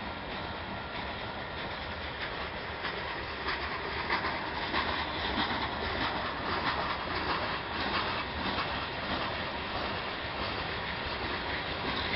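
Freight train of gravel cars rolling past slowly, steel wheels clacking over the rail joints. It grows louder a few seconds in.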